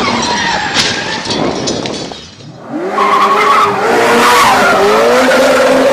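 A sports car driven hard: loud rushing noise at first, then, after a brief drop about two seconds in, a pitched wavering sound of engine and skidding tyres that rises and falls.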